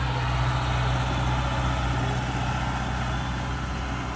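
Kubota DC70 Pro combine harvester's diesel engine running with a steady low hum, easing slightly quieter near the end.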